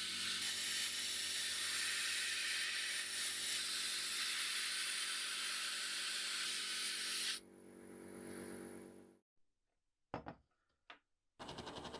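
A motor-driven machine running with a loud steady hiss over a hum. The hiss cuts off suddenly about seven seconds in and the hum dies away over the next two seconds. Then come a couple of sharp clicks, and another machine noise with a quick pulsing rhythm starts near the end.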